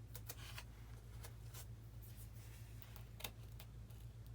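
Faint handling noises as a foam RC model airplane and its parts are worked on by hand: a few light scattered clicks and a brief scrape, over a steady low hum.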